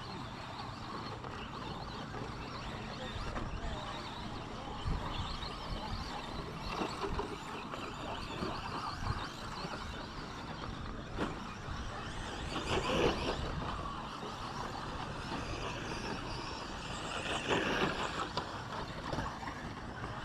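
Radio-controlled 2WD short course trucks racing on a track, their motors and tyres running continuously. There are two louder surges, about 13 and 17 seconds in.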